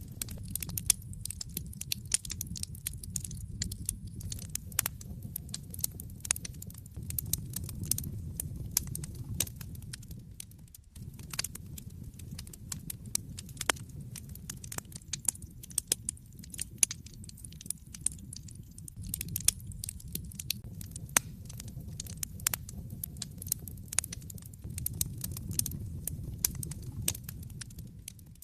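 Wood fire in a fireplace crackling, with frequent irregular sharp pops and snaps over a low steady rumble of the burning fire. The level dips briefly about eleven seconds in.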